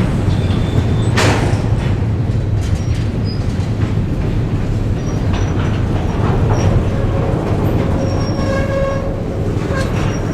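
Diesel freight train moving, with a steady low locomotive engine drone and the clank of railcars and wheels over the track. There are a couple of sharp knocks, and a brief higher-pitched squeal about eight seconds in.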